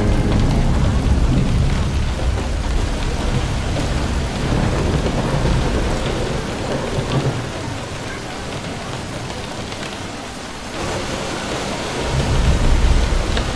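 Steady rain with low rolling thunder, the rumble swelling near the end.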